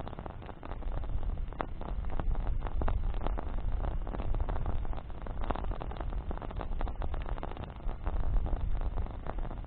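Bonfire of burning branches crackling, with many quick irregular pops over a steady low rumble.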